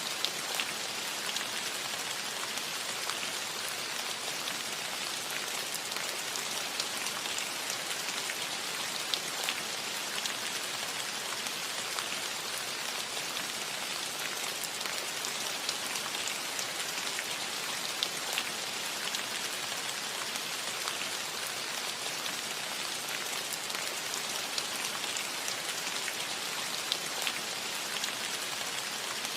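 Steady rain falling on a roof: an even hiss with many individual drops ticking through it.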